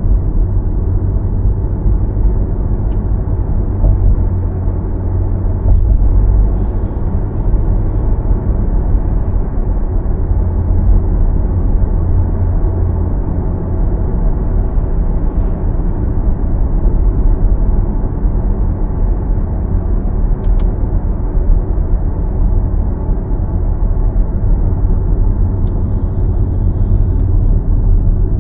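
Car driving, with a steady low rumble of road and engine noise and little change in level.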